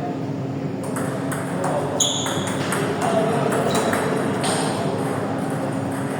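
Table tennis ball clicking as it is hit back and forth between paddle and table, a run of sharp irregular clicks over background voices. A short high squeak about two seconds in.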